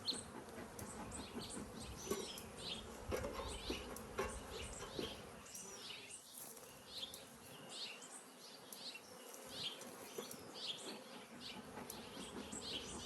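Honeybees buzzing around an open hive: the steady hum of many bees.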